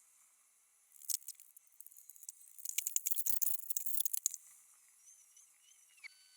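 Bursts of thin, high crackling and scraping clicks from demolition debris being broken up or handled: a short cluster about a second in and a dense run from about two and a half to four seconds in.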